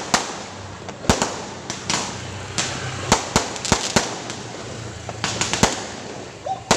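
Fireworks and firecrackers exploding: a rapid, irregular series of sharp bangs, about a dozen, over a steady haze of crackling and distant detonations.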